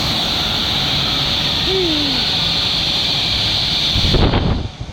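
Interactive water-play feature blasting a steady hissing spray of cold water for about four seconds. It cuts off with a brief loud rumble on the microphone.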